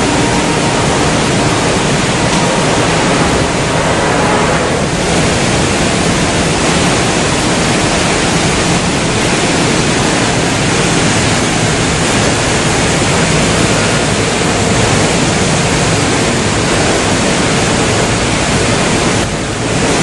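Steady, loud rushing noise from a Reichenbacher CNC machining center running, even throughout and dipping slightly near the end.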